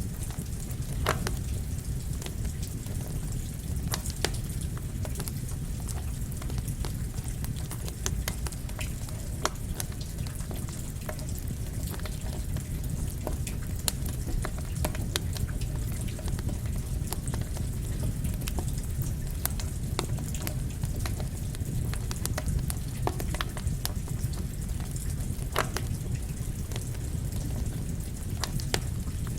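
Campfire crackling, with sharp irregular pops, over a steady hiss of rain and a low rumble.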